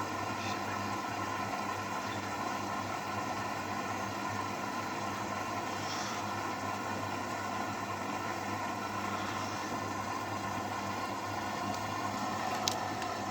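AEG washing machine running steadily with a constant motor hum, with one sharp click near the end.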